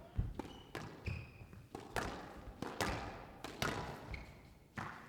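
A squash rally: the ball knocked back and forth by rackets and off the court walls in sharp, unevenly spaced knocks, with a few short squeaks of court shoes on the floor.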